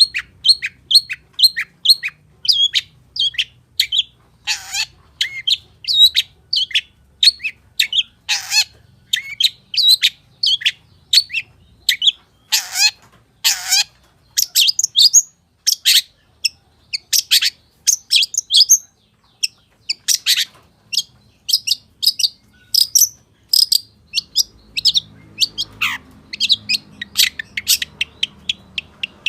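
Long-tailed shrike (pentet) singing a fast run of short, sharp chirping notes, a few per second, broken by several longer, harsher notes that sweep down in pitch; the song pauses briefly about two-thirds of the way through.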